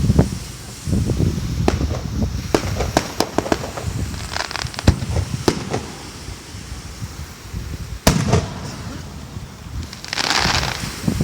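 Fireworks display: a rapid, irregular series of shell bursts and pops, with one loud bang about eight seconds in and a crackling, hissing burst near the end.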